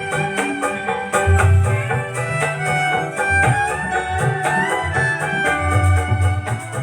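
Betawi gambang kromong-style band playing an instrumental passage with no singing: a bowed fiddle melody over plucked strings and a steady low drum beat.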